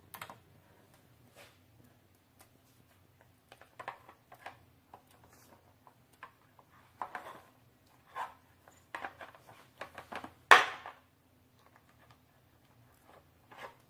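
Scattered light clicks and taps of a pet bird pecking and fiddling at a mirror and nearby objects, with a sharper knock about ten and a half seconds in.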